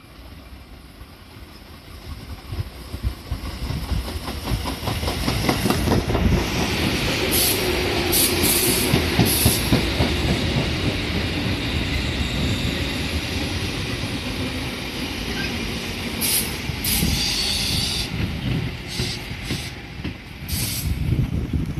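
Tobu 8000 series electric train running into the station alongside the platform, growing louder over the first several seconds as its wheels rumble and clack over the rail joints. Short bursts of high hissing come twice, in the middle and near the end.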